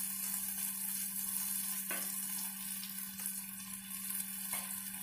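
Sabudana (soaked tapioca pearls) with potato and tomato sizzling in ghee in a black iron kadhai while being turned with a wooden spatula: a steady frying hiss, with two faint spatula strokes about two seconds and four and a half seconds in.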